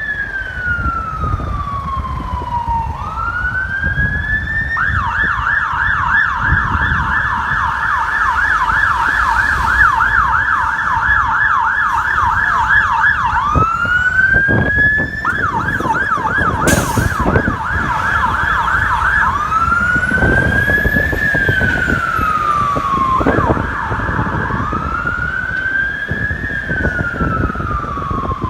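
Two-tone style electronic siren on a London Fire Brigade turntable ladder truck, switching between a slow wail rising and falling over a few seconds and a fast yelp of several quick sweeps a second, over the low rumble of the truck and road.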